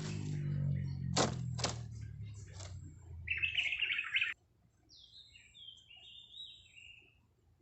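A few sharp knocks, then about a second of rapid, dense bird chirping that cuts off suddenly, followed by several faint thin chirps stepping down in pitch.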